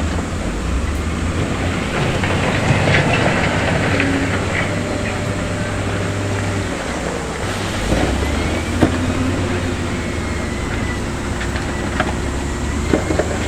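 Heavy diesel construction machinery running steadily, with scattered metallic clanks and knocks. The low engine hum drops off about seven seconds in and picks up again a second later.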